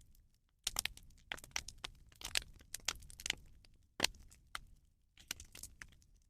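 Bonfire of burning rubbish crackling with irregular sharp pops and snaps. One louder snap comes about four seconds in.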